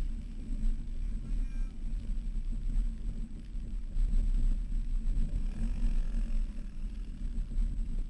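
Low, uneven rumble of an off-road vehicle driving over sand dunes, its engine and the ride noise swelling and easing.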